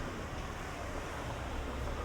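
Town street ambience: a steady wash of noise with a low engine rumble from a nearby vehicle, growing stronger about a second in.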